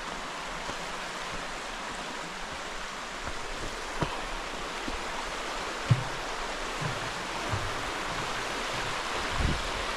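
Steady rushing of a river flowing over stones, with a few short low thumps, the sharpest about six seconds in.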